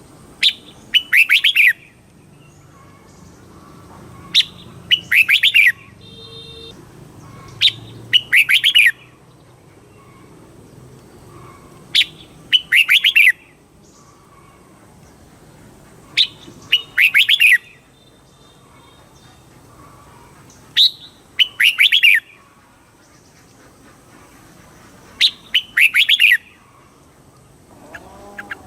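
Red-whiskered bulbul song: a short sharp note followed by a quick warbling phrase, repeated the same way about every four seconds, seven times.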